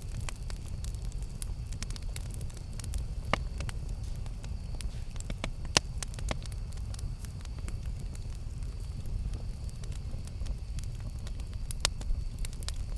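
Campfire burning, with a steady low rumble and irregular crackles and sharp pops throughout; three pops stand out, a few seconds in, about halfway, and near the end.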